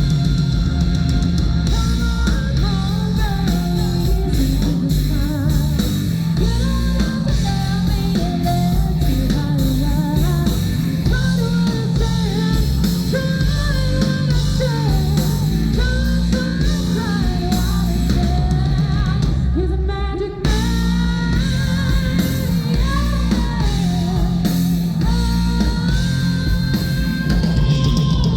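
A live rock band playing loudly, with a singer, electric guitar, bass and drum kit; the music ends near the end.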